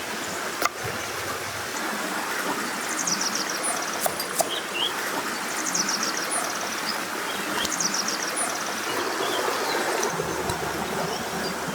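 Steady rush of flowing stream water, with small birds chirping in short trills several times over it and a few brief clicks.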